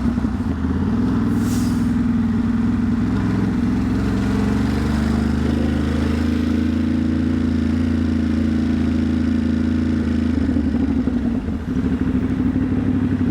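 Ducati Monster's V-twin engine running at low, fairly steady revs in slow traffic, its note shifting a little as the throttle changes, with a brief hiss about a second and a half in.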